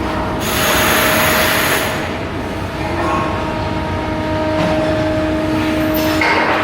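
Shipyard work machinery: a steady two-tone hum, with a loud hissing burst from about half a second in that lasts over a second, and a shorter one near the end.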